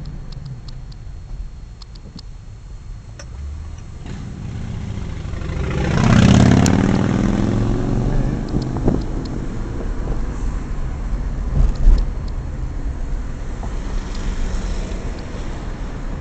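Steady car driving rumble, with another vehicle passing close by about six seconds in. It swells and then drops in pitch as it goes away.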